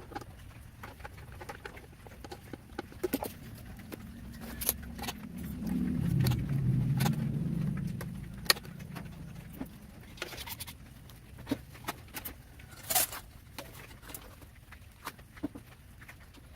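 Scattered light metallic clicks and taps of parts and tools being handled during hands-on work, with a low rumble that swells and fades for a few seconds in the middle.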